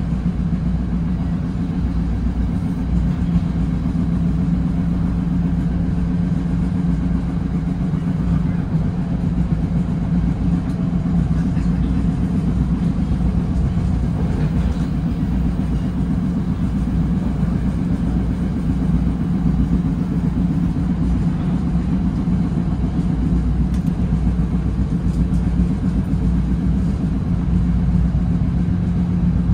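Steady low rumble of a Bombardier Comet IIM passenger coach running along the rails, heard from inside the car, with a steady low hum under it.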